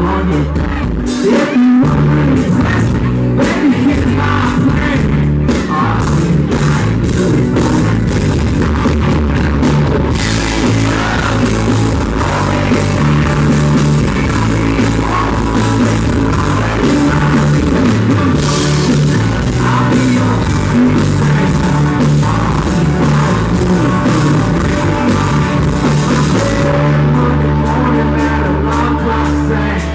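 Live country-rock band playing loudly, with drums, bass, electric guitar and singing. The audience recording is rough and distorted. The cymbal wash thickens about a third of the way in and thins again near the end.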